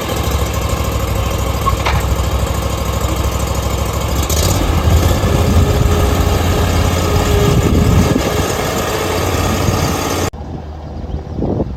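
Lawn mower engine running steadily at close range; the sound stops abruptly about ten seconds in.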